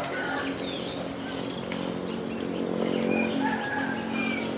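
Rural bird chorus after rain: one bird repeats a short falling chirp about twice a second, then stops about a second and a half in, while other birds call lower. A steady high-pitched insect drone and a low steady hum run underneath.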